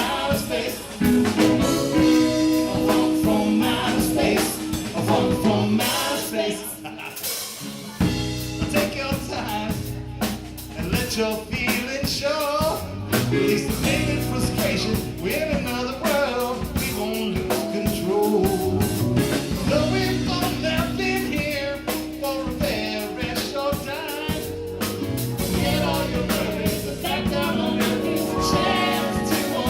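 A live funk band playing, with singing over drum kit, bass and other instruments; the bass and low end drop out briefly about seven seconds in, then the full band comes back.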